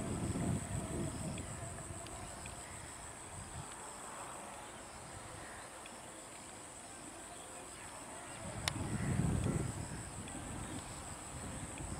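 Distant freight train rolling past, a low rumble that swells near the start and again late on, under a steady high insect drone and scattered bird calls. A single sharp click comes just before the second swell.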